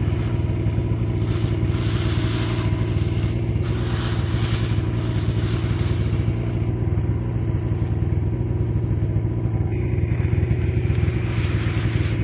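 Engine idling steadily, with intermittent scraping and brushing sounds, typical of snow being cleared off a vehicle.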